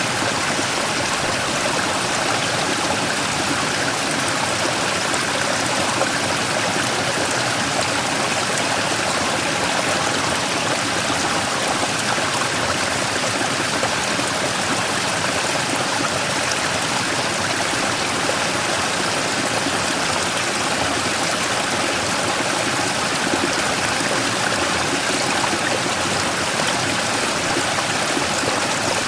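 Mountain stream running over and around a large rock: a steady, even rush of flowing water with no let-up.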